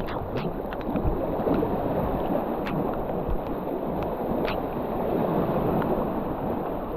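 River water gurgling and lapping around a moving kayak, with a few light drips.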